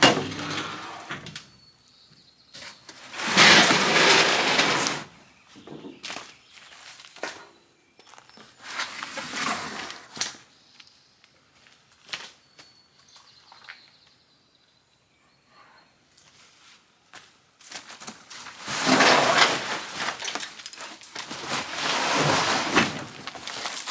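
Parts boxes being unpacked by hand: cardboard and packing material rustling, scraping and tearing in several bursts, with small knocks in between.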